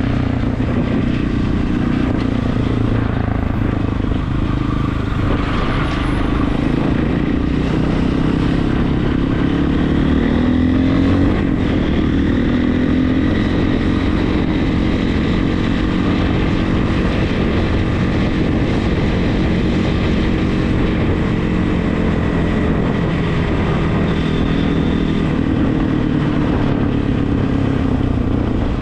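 Regulmoto TE enduro motorcycle engine running while riding. Its pitch rises about ten seconds in as it speeds up, then holds steady.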